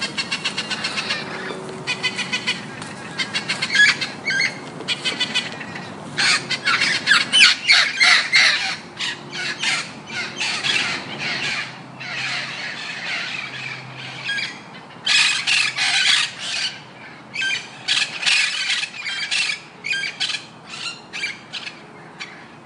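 Birds calling: repeated bursts of rapid, harsh squawking chatter, one burst after another.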